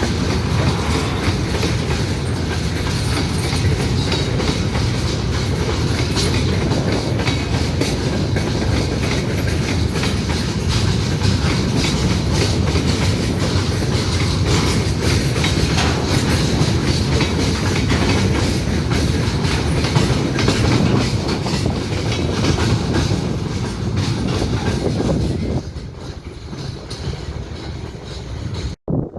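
A train rolling past close by, its wheels clicking steadily over the rail joints. The sound drops away abruptly near the end as the last cars go by.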